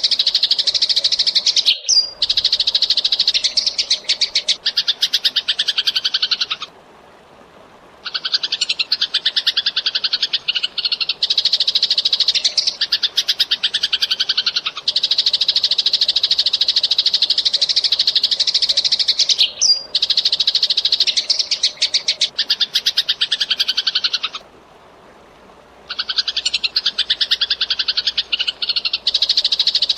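Eurasian tree sparrow chirping in fast, tightly packed runs of high chirps, with two short breaks of about a second and a half and a sharp click twice.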